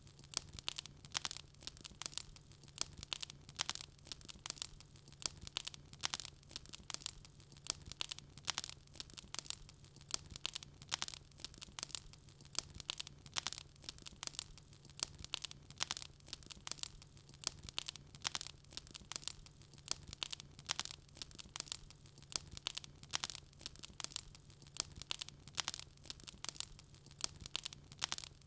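Wood fire burning in a fireplace, crackling and popping: dense, irregular sharp crackles several times a second, over a faint steady low hum.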